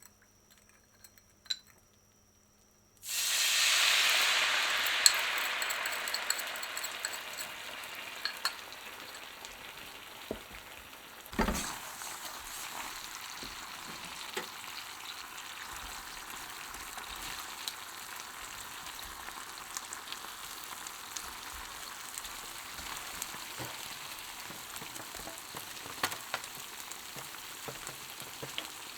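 Food going into hot oil: after a few quiet seconds with light clicks, a loud sizzle starts suddenly about three seconds in and slowly settles into steady frying with small crackles. A single knock, like a utensil or pan, comes a little before the middle.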